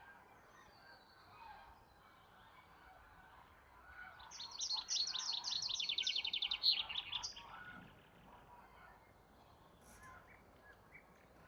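A songbird sings one rapid trilled phrase of about three seconds, starting around four seconds in, its repeated notes stepping down from high to lower. Faint scattered chirps from other birds sit over a steady background hiss before and after it.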